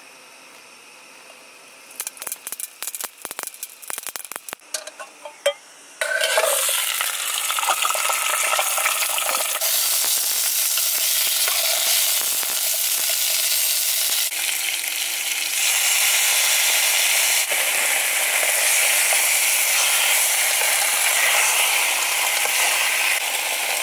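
A pan or pot with a few utensil clicks and scrapes, then about six seconds in a sudden loud sizzle as chili and onion go into hot oil. The sizzle carries on steadily while they are stir-fried.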